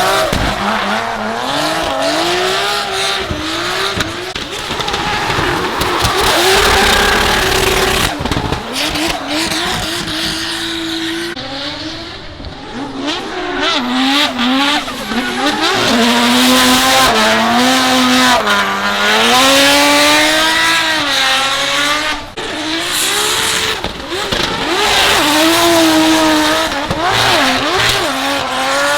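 Competition drift cars' engines at high revs on a wet track, the pitch rising and falling again and again as the throttle is worked through the slides, over a hiss of tyre noise and spray.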